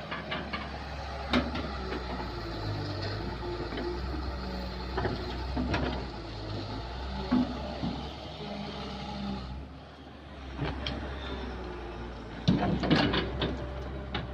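Compact Kobelco excavator's diesel engine running steadily as it digs, with scattered sharp clanks and knocks and a burst of them about two-thirds of the way in. The engine dips briefly just before that burst.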